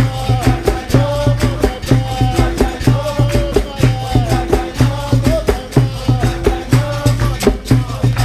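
Live capoeira roda music: singing over the steady rhythm of the bateria, with berimbau, pandeiro and the low tones of drums.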